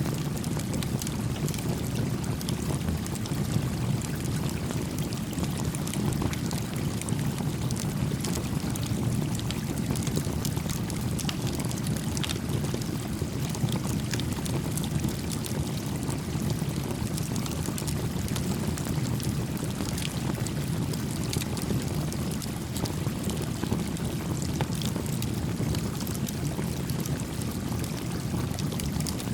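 Small stream flowing steadily, with a wood campfire crackling in scattered sharp pops over it.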